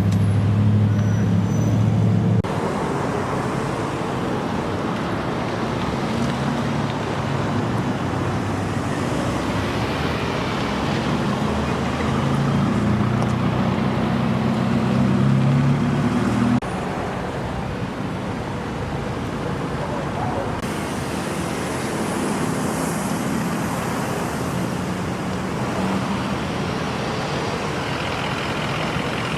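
Road traffic: motor vehicle engines running and passing, a steady noisy drone that changes abruptly twice, with a faint rising whine in the last third.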